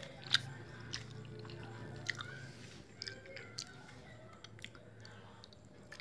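A person chewing a mouthful of sekoteng toppings close to the microphone, with small irregular wet clicks and crunches.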